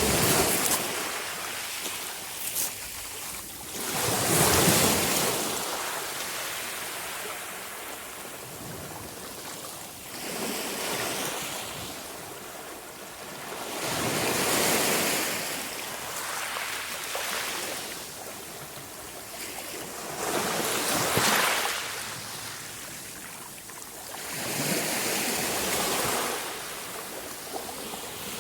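Sea waves breaking on the shore, the surf swelling and fading in repeated surges about every five to six seconds.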